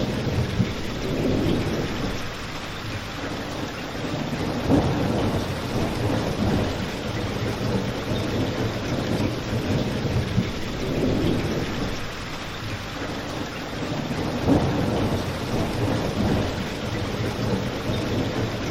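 Steady rain with a low rumble that swells and fades every few seconds, and a few sharp pops from a crackling fireplace.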